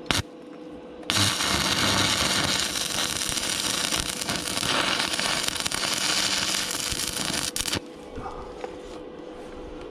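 Electric arc welding on steel flat bar: a short crackle of the arc striking at the start, then a steady crackling arc for about seven seconds that stops suddenly.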